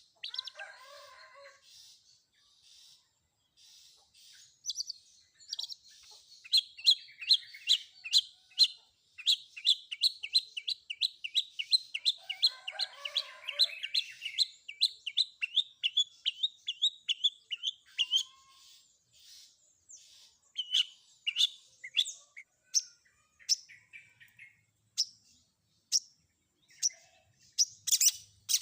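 Long-tailed shrike (cendet) singing a varied song built from mimicked fill-in phrases: a long run of sharp, quickly repeated notes, several a second, then changing phrases.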